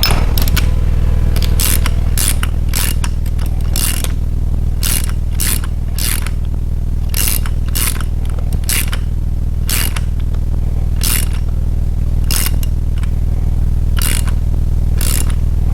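A ratchet wrench clicking in short back-and-forth strokes as the rocker-arm adjusting nuts on a Chevy 350 small-block are turned down to take up push rod slack. A steady low hum runs underneath.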